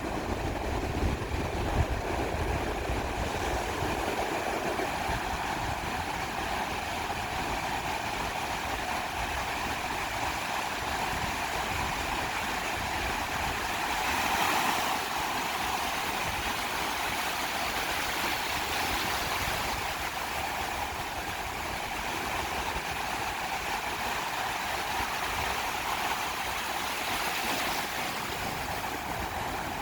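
Sea surf washing steadily onto a beach, swelling louder about halfway through and again near the end as waves break.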